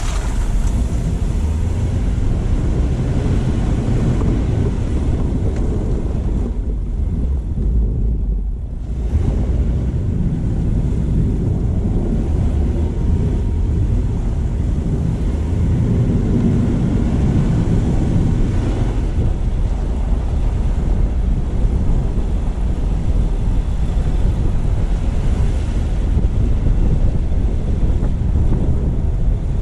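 Car driving: a steady low rumble of tyre and road noise with wind on the microphone. It eases briefly about seven seconds in.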